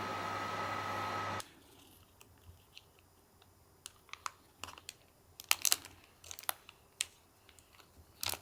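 Microwave oven running with a steady hum and a high whine, stopping abruptly about a second and a half in; then a scatter of small, sharp clicks and taps, the loudest cluster a little past the middle.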